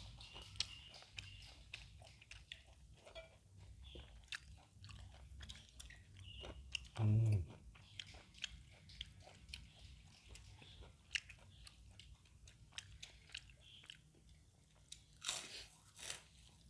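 Close-up chewing and crunching of crisp food, with many sharp crunches scattered throughout, a brief louder low-pitched sound about seven seconds in, and a short rustling burst near the end.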